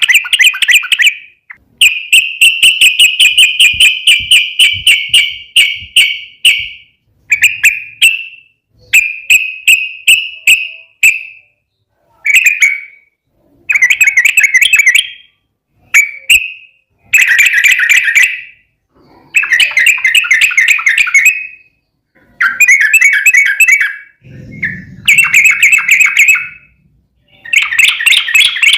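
Yellow-vented bulbul (trucukan) singing: loud, rapid chattering phrases of quickly repeated notes, each phrase lasting one to several seconds with short pauses between, the long fast trills that keepers call ropel.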